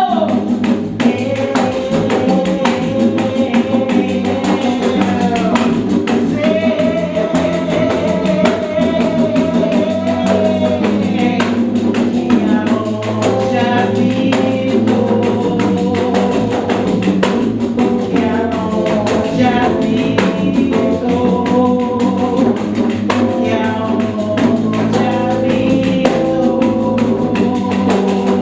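Live ensemble of pandeiros, Brazilian frame drums with jingles, playing a fast, dense rhythm under a sung melody with long held notes.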